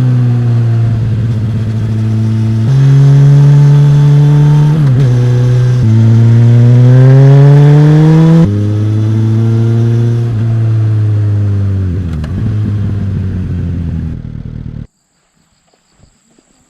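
Suzuki GSX-S1000 inline-four engine and exhaust under way: first holding a fairly steady pitch, then accelerating with a rising pitch, then a sudden drop at a gear change and a falling pitch as it slows. The sound cuts off abruptly near the end, leaving near silence.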